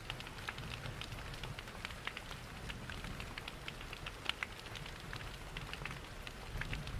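Crackling wood fire in a fireplace with dense small pops, together with rain pattering, over a low steady rushing. One sharper crackle stands out about four seconds in.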